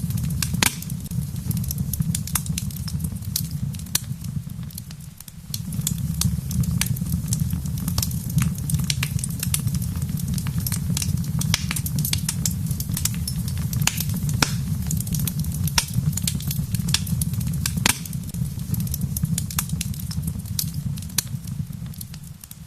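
Wood fire crackling in a fireplace: frequent sharp pops and snaps over a steady low rumble of flames. The sound dips briefly about five seconds in and again near the end.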